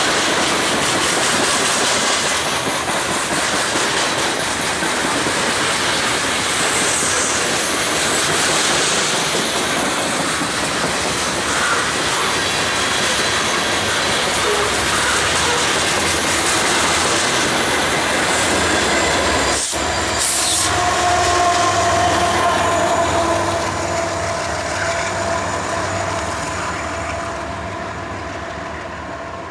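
Freight train cars rolling past with a steady clickety-clack of wheels over rail joints. A sharp click comes about two thirds of the way through, then a thin wheel squeal, and the sound fades near the end.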